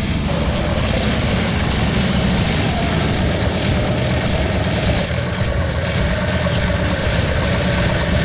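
A vehicle engine running steadily at a low, even pace, with a constant hum.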